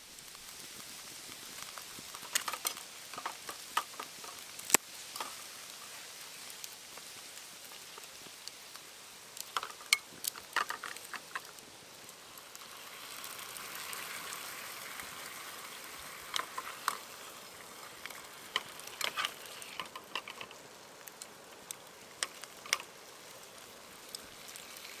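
Sizzling hiss from cooking over a wood campfire, broken by sharp crackling pops scattered through, with the hiss swelling a little about halfway.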